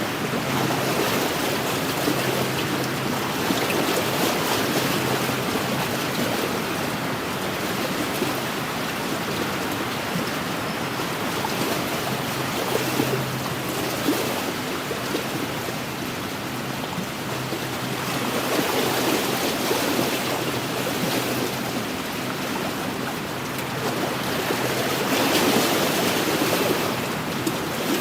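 Wind-driven waves washing steadily against a lakeshore, swelling a little louder a few times.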